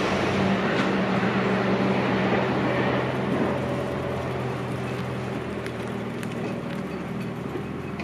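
Rumble of a JR Tokaido Main Line train fading away as it moves off from the level crossing, growing steadily quieter.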